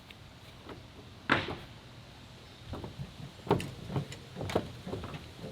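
A series of irregular knocks and clunks, the loudest a sharp one about a second in and several more close together in the second half.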